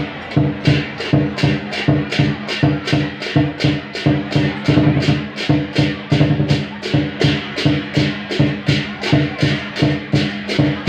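Javanese barongan accompaniment music from a percussion ensemble: pitched bamboo and drum strikes in a steady, brisk beat of about three strokes a second over a held set of low tones.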